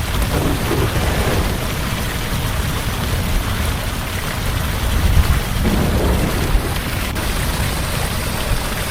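Heavy rain pouring steadily, with low thunder rumbling underneath that swells about five seconds in.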